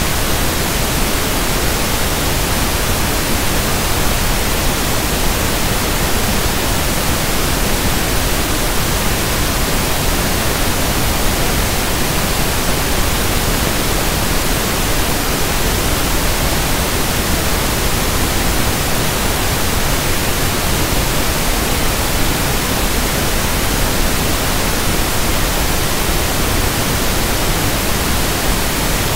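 Synthetic pink noise (1/f noise): a loud, even hiss spread across all pitches, with no change in level or character.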